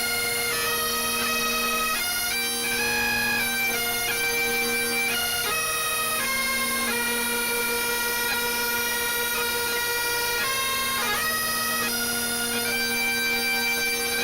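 Bagpipes playing a tune: a melody that steps from note to note over steady, unbroken drones.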